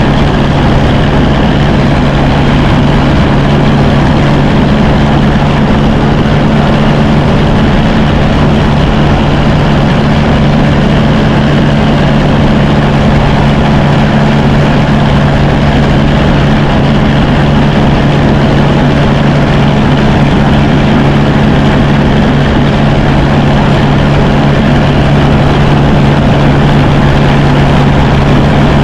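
1954 Fordson Major tractor engine running steadily at idle, loud and unchanging.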